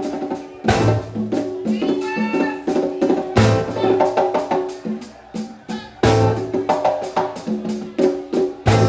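Live band music with a drum kit beat under pitched instruments, with a heavy accented hit about every two and a half seconds and a wavering melodic line near the start.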